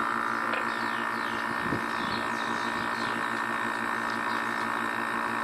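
Compressor of an old split air conditioner's outdoor condensing unit running, a steady hum made of several even tones, with one soft knock a little under two seconds in.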